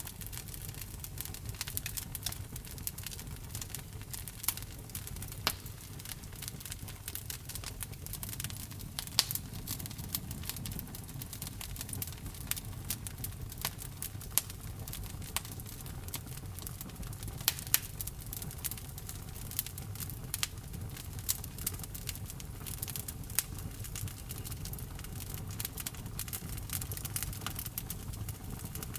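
Wood fire burning in a fireplace: logs crackling with a steady stream of small sharp pops and a few louder snaps, over a low, even rumble of the flames.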